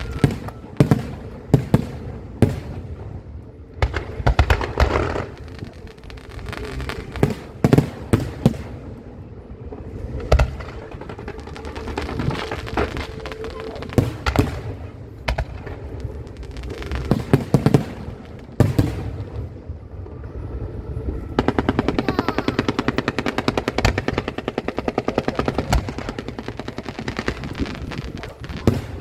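Aerial fireworks exploding: loud bangs, singly and in quick clusters, each with a short echoing tail. About two-thirds of the way through, this gives way to a rapid, even rattle of small cracks lasting several seconds, like machine-gun fire.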